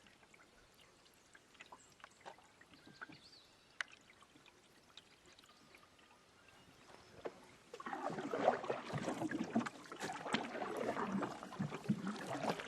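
Water splashing and gurgling around a canoe: faint drips and small ticks at first, then louder, busier splashing about eight seconds in, which cuts off abruptly at the end.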